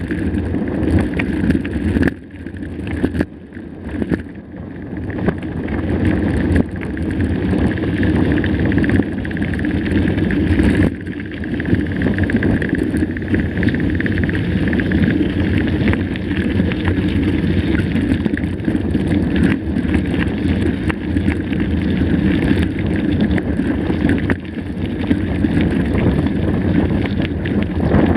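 Mountain bike on the move over a dirt trail: a steady rush of wind on the microphone under many small clicks and knocks of the bike rattling over rough ground, dropping quieter for a few seconds near the start.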